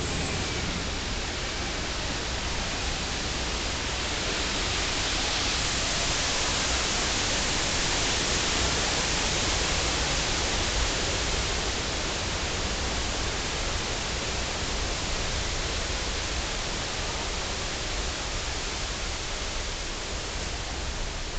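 A torrent of water rushing and crashing down in a staged water-main break, a steady heavy rush with a low rumble underneath, at its fullest from about five to twelve seconds in.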